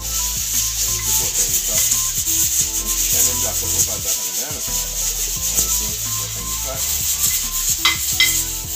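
Butter and garlic frying with a steady hiss in a non-stick frying pan on a gas stove while a metal spoon stirs and scrapes the pan. Two sharp clicks come near the end.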